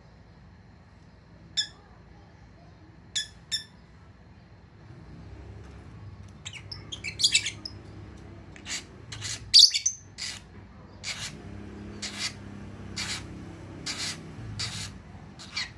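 Lovebird giving short, sharp, high-pitched chirps: three scattered calls early on, a loud flurry about halfway, then a call roughly every half second.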